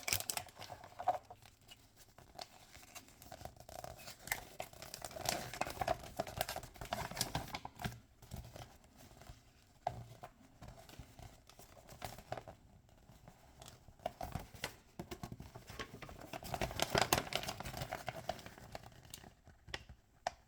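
Toy packaging being crinkled and torn open by hand, in irregular bursts with small clicks and taps, loudest in two stretches and dying away near the end.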